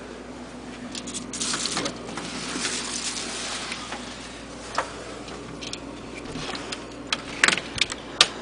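Clicks, knocks and a rustling scrape as a back door's lock and handle are worked and the door is pushed; it stays shut, held by deep snow outside.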